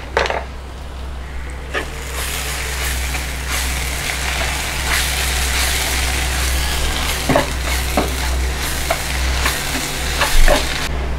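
Sliced onions and ground spices frying in oil in a nonstick pan, sizzling steadily while a spatula stirs and scrapes through them; the sizzle builds about two seconds in, with a few light taps of the spatula against the pan.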